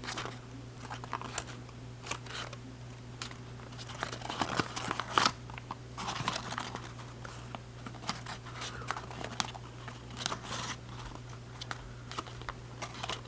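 Origami paper crinkling and crackling in irregular bursts as it is pinched and pressed into folds along existing creases, loudest about five seconds in, over a steady low hum.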